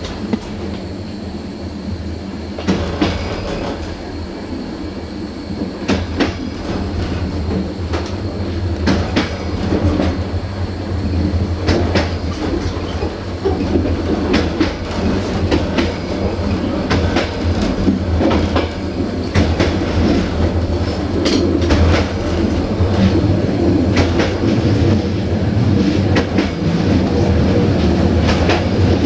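Train rolling along jointed track: wheels clicking over the rail joints above a steady low rumble, getting gradually louder.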